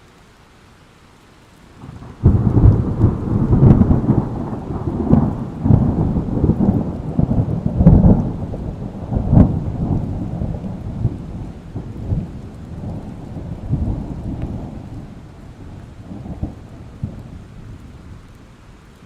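Thunderstorm sound effect: a long roll of thunder breaks about two seconds in with a series of sharp cracks, then rumbles on and slowly fades over some fifteen seconds, with steady rain underneath.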